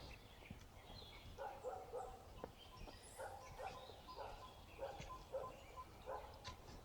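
Faint animal calls outdoors: short pitched calls in pairs and threes, repeated several times, with a high, regular peeping starting about five seconds in.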